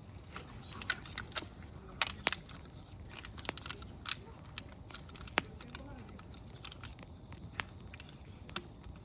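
Open wood campfire crackling, firewood popping in irregular sharp snaps, the loudest about five and a half seconds in, over a faint steady hiss.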